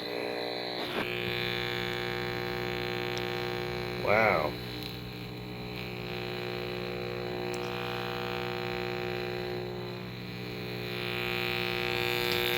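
Steady electrical buzz with a stack of overtones from a running microwave oven, unchanging throughout.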